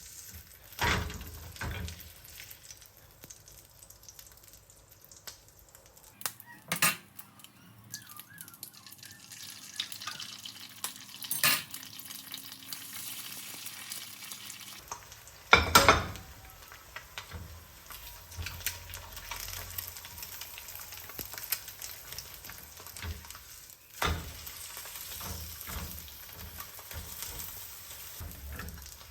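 Food sizzling as it fries in a pan, a steady hiss with occasional sharp knocks of a utensil against the pan.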